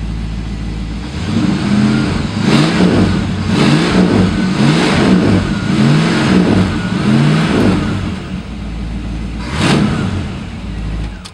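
1970 Ford Thunderbird's rebuilt 429 big-block V8 idling, then revved in a quick series of about six blips of the throttle, settling back to idle, with one more rev near the end.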